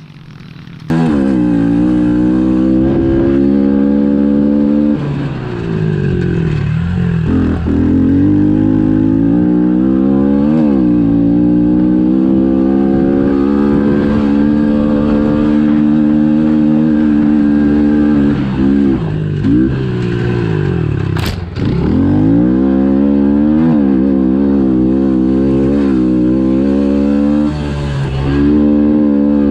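Pit bike's small four-stroke engine running hard at high revs, its pitch dropping off and climbing back up several times as the throttle is rolled off and on around the track. A sharp click about two-thirds of the way through.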